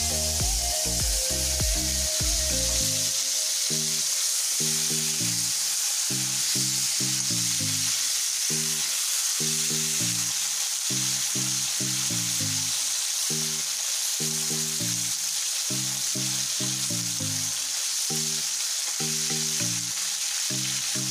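Large prawns frying in hot oil in a steel wok, a steady sizzle.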